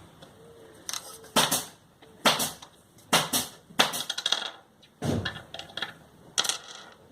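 A string of loud knocks and scraping clatters of hard objects being handled, six or so, irregularly spaced about a second apart.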